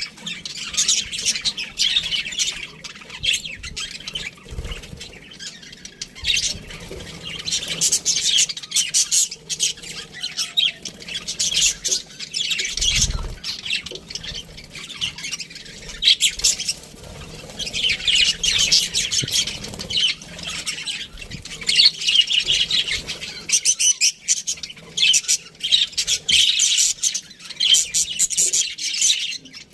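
A flock of budgerigars chattering, a dense run of overlapping chirps, warbles and squawks.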